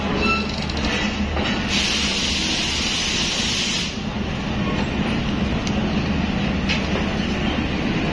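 Karakorum Express passenger train running with a steady low rumble. A hiss rises over it about two seconds in and stops a couple of seconds later.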